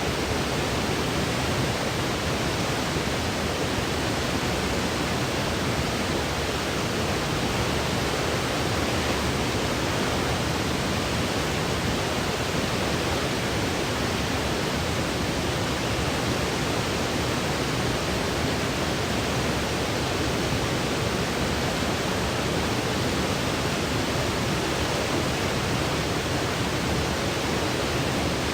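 Steady sleep noise: an even, unchanging hiss that is heavier toward the low end, like pink noise.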